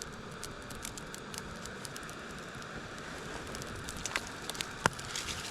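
Campfire crackling: a steady hiss with scattered sharp pops, the sharpest about four and five seconds in.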